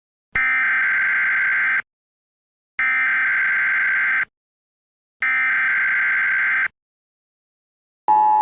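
Emergency Alert System header tones: three identical buzzy digital data bursts of about a second and a half each, with short silent pauses between them. Near the end the steady two-tone attention signal starts.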